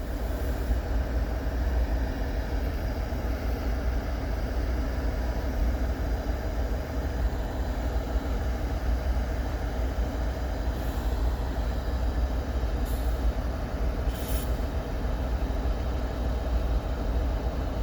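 Diesel freight locomotives, a GE ES44DC leading, running as the train creeps to a stop: a steady low engine rumble, with a few short hisses about two-thirds of the way in.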